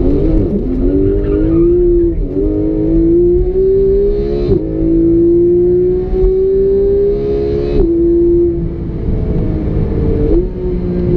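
Porsche 991 GT3's naturally aspirated 3.8-litre flat-six pulling under acceleration, its note climbing steadily through each gear. Four quick upshifts, at about 2, 4.5, 8 and 10.5 seconds in, each drop the pitch sharply, with a short crackle at two of them.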